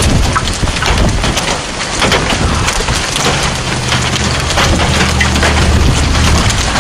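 Heavy storm rain mixed with hail pelting hard surfaces: a dense hiss with many sharp clicking hits. A low steady hum sits under it from about three to six seconds in.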